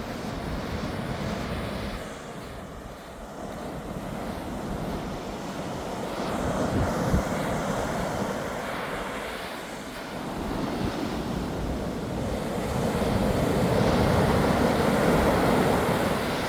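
Ocean waves washing onto a beach, the surge swelling about six seconds in and again, louder, near the end, with wind rumbling on the microphone.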